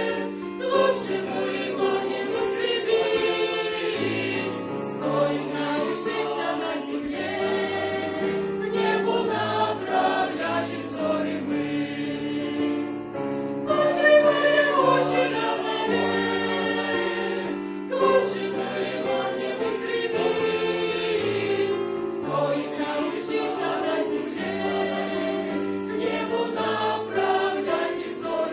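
A church choir singing a Christian song in several-part harmony, with held chords that change every second or two.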